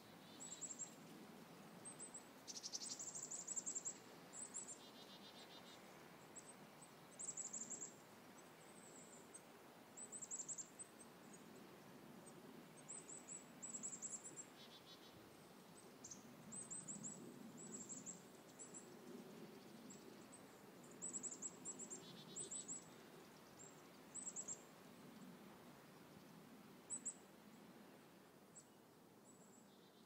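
Small birds chirping: short, high-pitched chirps in clusters every second or two, over a faint low background noise.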